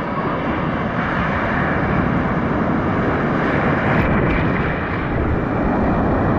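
Ocean surf: a steady rushing noise of waves breaking on the beach, swelling slightly.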